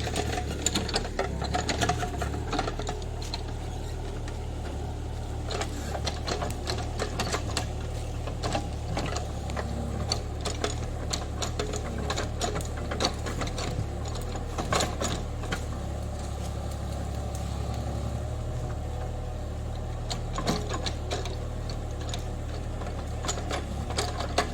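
JCB 30 Plus mini excavator's diesel engine running steadily while it works, with irregular clanks and knocks throughout.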